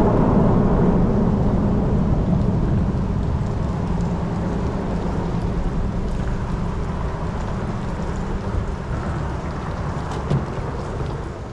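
A boat motor running under way, a steady low drone mixed with wind and water noise, easing slightly in level before it cuts off abruptly at the end.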